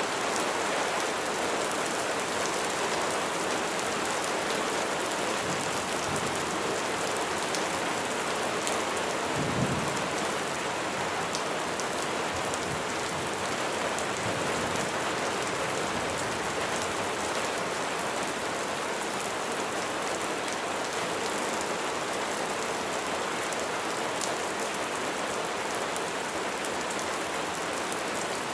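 Steady rain falling on a surface, a dense even patter with fine drop ticks. About a third of the way in comes one brief low thump.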